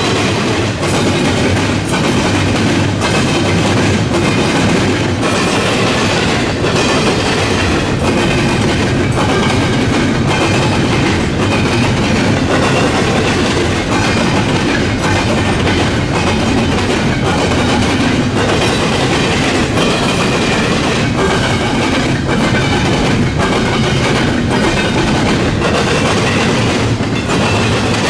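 Double-stack intermodal freight cars rolling past at track speed: a steady rumble of steel wheels with a regular clickety-clack over the rail joints and crossing.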